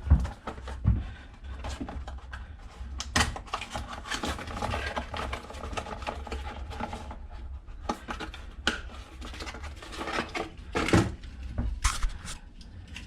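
Hands handling small hard parts, with scattered clicks, taps and light rattles.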